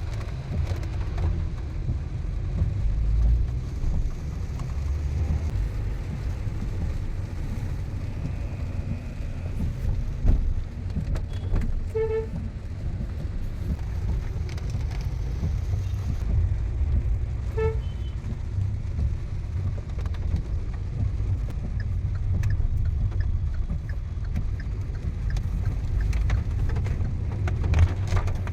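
Steady low rumble of a car driving in traffic, heard from inside the cabin. Two short vehicle-horn beeps sound about five seconds apart near the middle.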